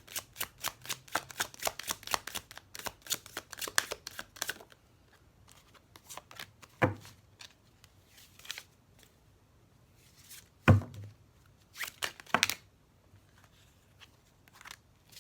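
Tarot cards being shuffled by hand, a quick run of card slaps about six a second, which stops after about four and a half seconds. A few separate knocks follow as the deck is handled on the table.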